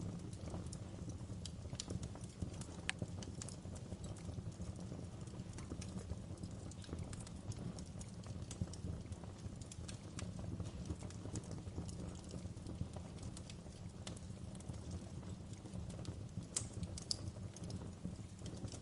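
Wood fire burning in a fireplace: a steady low rumble of flames with scattered sharp crackles and pops, a few louder pops near the end.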